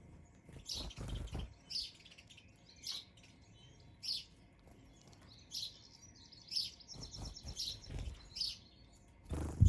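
Small garden birds chirping at a feeder: short, high chirps about once a second, with a quicker run of chirps about seven seconds in. Low thumps sound early on and again, louder, near the end.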